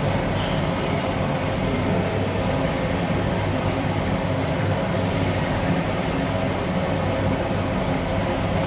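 A steady low rumbling noise with an even hum beneath it, unchanging throughout.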